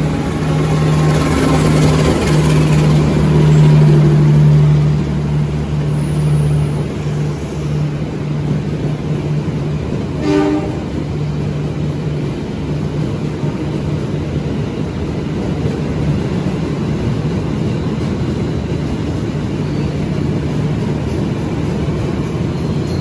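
A diesel-hauled passenger train pulls in alongside the platform. The locomotive's steady engine hum is loudest in the first few seconds, then gives way to the even rolling noise of the coaches sliding past. A brief high tone sounds once, about ten seconds in.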